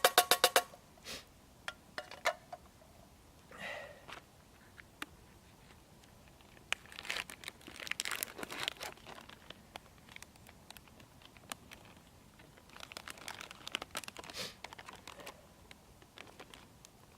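A rhythmic music beat cuts off just under a second in. Then come faint scattered clicks and taps and two spells of rustling and crinkling, as packaging is handled and torn open during camp cooking.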